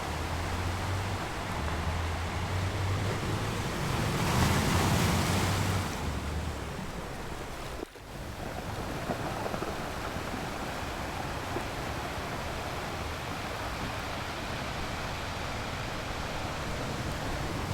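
Sea surf on a sandy beach: a steady rush of breaking and washing waves, swelling louder as a wave breaks about four to six seconds in. Wind rumbles on the microphone, and the sound dips out briefly about eight seconds in.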